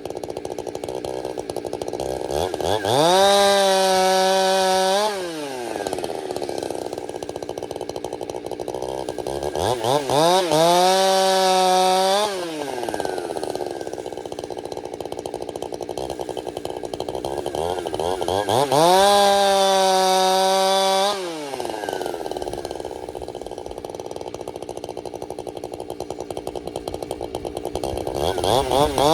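Husqvarna 372XP two-stroke chainsaw idling between firewood cuts, revving up to full throttle three times for about two seconds each as it cuts through a pine log, then dropping back to idle; it revs up again right at the end.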